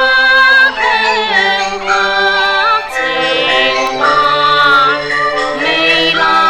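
Cantonese opera song (yuequ): a wavering melody line with vibrato and sliding notes over held accompanying notes, in steady phrases without a break.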